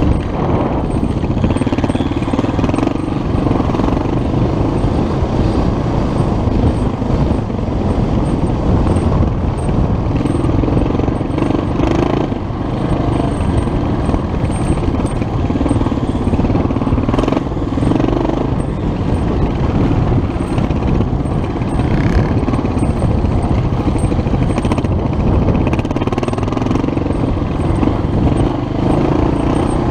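Vintage enduro dirt bike's engine running under load while ridden along a rough trail, the revs rising and falling every few seconds, with a few knocks from bumps about 12, 17 and 22 seconds in.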